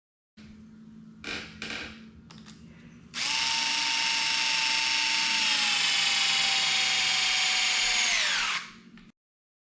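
Power drill driving screws: a few light clicks of handling, then about five seconds of steady motor whine, sagging slightly in pitch as it loads up before it spins down and stops.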